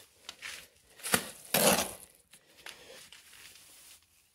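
Mason's trowel working wet mortar for a render coat: a sharp clink about a second in, then a louder scraping slap half a second later, with lighter scrapes around them.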